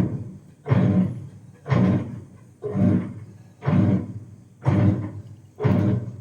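Deep, heavy thumps about once a second in an even rhythm, each with a short ringing tail.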